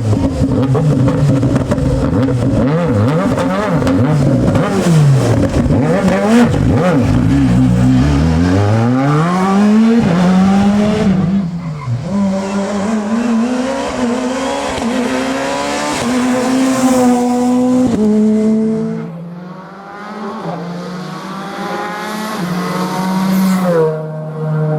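Rally car engine at full attack. It revs up and down rapidly through the first few seconds, then accelerates away, the pitch climbing and dropping at each upshift, and it gets quieter in the last few seconds as it pulls away.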